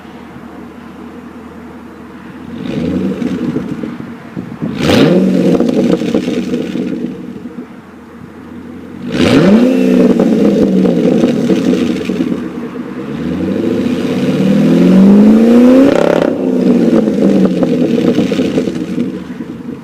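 Pontiac G8 GT's L76 V8 through a Solo Performance Mach Shorty unbalanced cat-back exhaust, idling and then revved several times. There are quick blips that fall back to idle, then a slower climb that is held briefly before dropping off.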